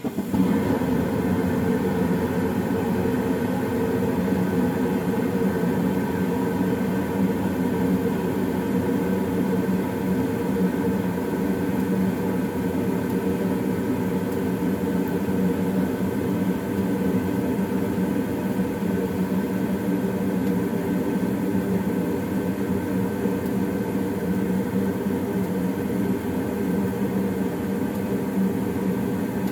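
The circulating blower of a 2011 Goodman gas furnace kicks on abruptly, then runs steadily with a loud rush of air and a hum as the furnace comes up to heating.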